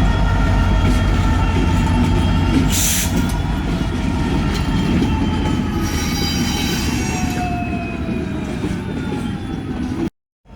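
Diesel-electric locomotive running with a loud steady rumble and a turbocharger whine of several high tones that slowly sag in pitch. A short hiss comes about three seconds in, and the sound cuts off suddenly just before the end.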